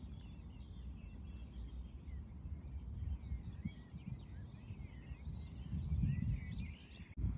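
Wind rumbling on the microphone, with a faint chorus of many short bird calls and song phrases in the background.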